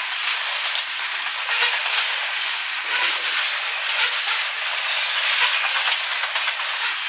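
Freight cars rolling past close by: a steady rush of steel wheels on rail, with faint clicks as the wheels cross rail joints.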